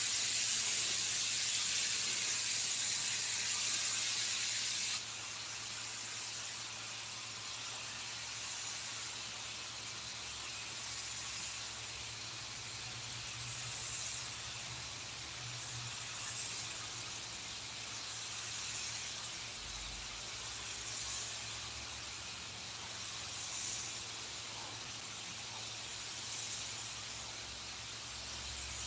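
Steady hiss of compressed air, loud for the first five seconds, then softer, with faint swells every two to three seconds.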